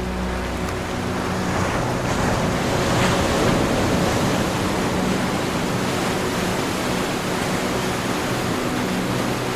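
Ocean waves washing in; one wave swells to a peak about three seconds in, then the surf holds steady. A faint, steady low hum runs underneath.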